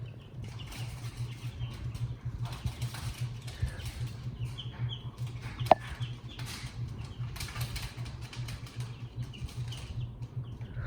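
Hunter Builder Plus ceiling fan running on high: a steady low hum with a fast fluttering pulse from the spinning blades. Baby chicks peep faintly a few times around the middle, and there is one sharp click about six seconds in.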